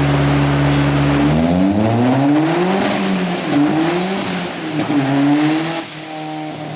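Turbocharged Ford Focus engine going from a steady idle to revving about a second and a half in. The revs rise and fall about three times, with a high turbo whistle following them, then drop back near the end.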